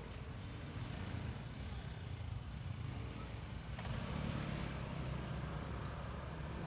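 Honda ADV 150 scooter's single-cylinder engine running while riding, with road and wind noise; the noise grows a little louder from about four seconds in.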